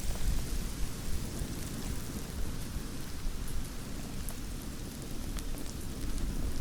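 Campfire crackling: scattered sharp pops and snaps over a steady low rumble of burning.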